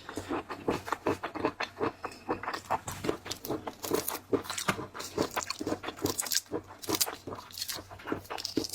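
Close-up chewing and crunching of seafood, a dense run of quick crackles and clicks.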